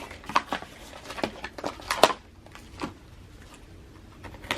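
Photocard packaging being handled and opened: a quick run of crinkles, rustles and clicks for about two seconds, then a couple of isolated taps.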